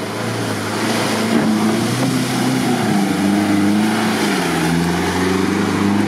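Toyota Land Cruiser 70-series engine revving under load as it drives through mud and water, its pitch rising and falling several times.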